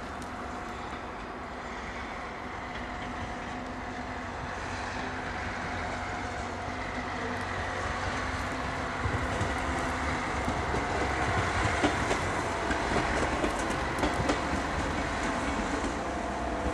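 A TER regional railcar rolling slowly past with a steady motor hum, growing gradually louder, and from about halfway on sharp clicks of its wheels over rail joints and points.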